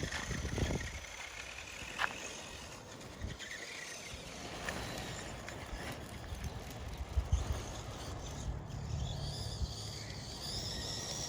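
Axial SMT10 6x6 RC monster truck driving: its electric motor gives a thin whine that slides up and down in pitch over a steady running noise, with a few sharp knocks.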